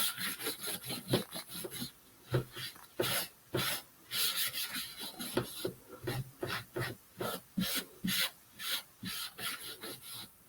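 Repeated wiping strokes on a wooden birdhouse, rubbing back wet paint to distress it, in short irregular rubs about two a second.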